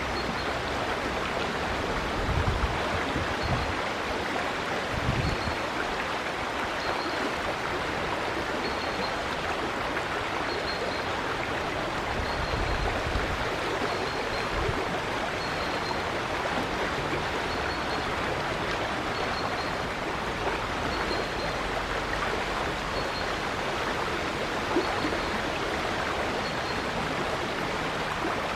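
River water flowing steadily, with a short high chirp repeating about every second and a bit, and a few brief low rumbles now and then.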